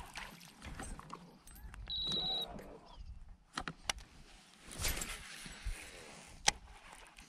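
Scattered clicks and knocks of fishing gear being handled in a kayak, the sharpest knock about six and a half seconds in. A short high trill comes about two seconds in.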